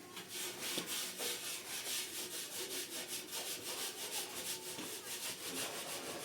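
Rhythmic rubbing and scraping from bread-making done by hand, at about four even strokes a second.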